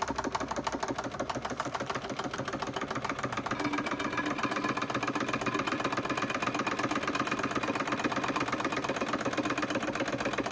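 Wilesco D32 model steam roller's steam engine running, a rapid and even run of beats. It runs smoothly, described as running beautifully; it gets a little louder about a third of the way through.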